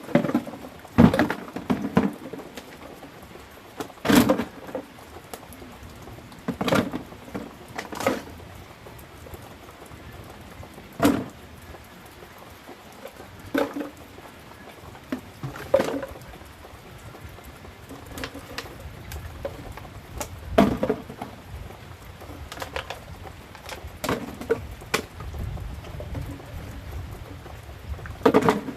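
Heavy rain pattering steadily, with irregular sharp strikes and rustles every one to three seconds from hand work clearing weeds in the garden.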